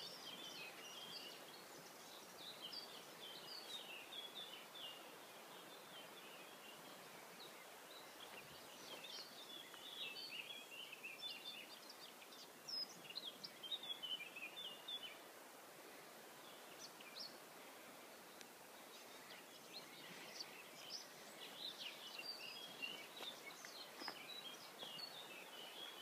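Birds chirping in bursts of quick high notes, with pauses of a few seconds between bursts, over a faint steady outdoor hiss.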